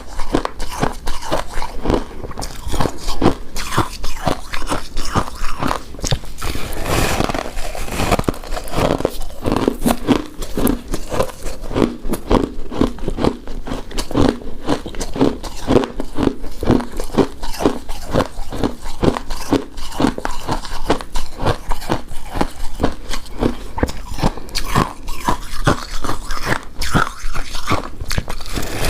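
Close-miked wet chewing and mouth smacks of someone eating a soft, chewy coconut-coated rice cake, a rapid run of sticky clicks and squelches throughout.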